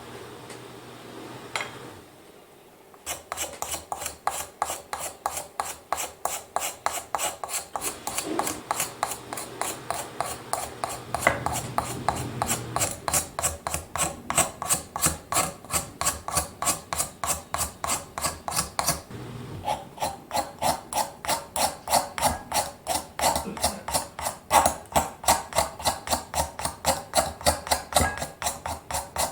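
A steel Japanese-style ice shaving knife scraping over a block of ice in quick, even strokes, about three a second, shaving it into snow-cone ice. The strokes start about three seconds in and pause briefly about two-thirds of the way through.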